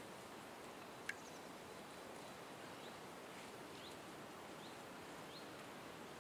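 Faint bird chirps, short rising notes repeated about once every second in the latter half, over a steady outdoor hiss, with one sharp click about a second in.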